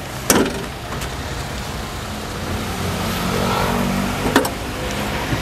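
Suzuki Every van's K6A three-cylinder engine idling, with a sharp click about a third of a second in as the hood release lever under the dash is pulled. A second click about four and a half seconds in comes from the hood latch at the front.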